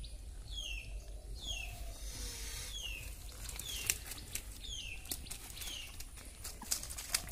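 A bird repeating a short, falling call over and over, roughly every three-quarters of a second. From about four seconds in, sharp clicks and rustling from hands working fish out of a nylon cast net.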